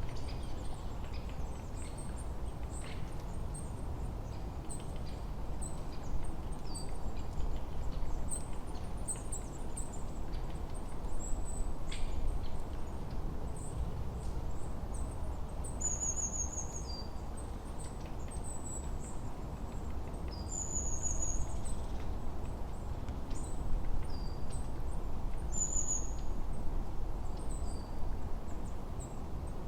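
Forest birdsong: small birds chirping in short, high, thin notes over a steady low rushing background. From about halfway, one bird repeats a short falling note every two to three seconds.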